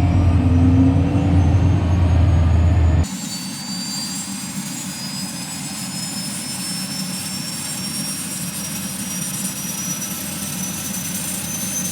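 Rolls-Royce Allison turbine of a Soloy-converted Cessna 206 starting, a whine rising slowly in pitch as it spools up. About three seconds in the sound changes abruptly: the low rumble drops out, leaving a quieter, thinner rising whine.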